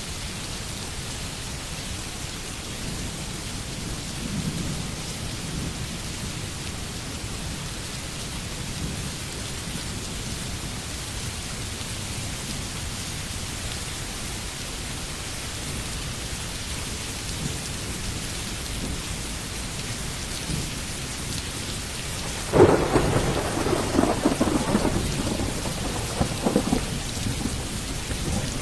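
Steady rain falling, an even hiss. About three quarters of the way through, a sudden clap of thunder breaks in and rolls on as rumbling to the end.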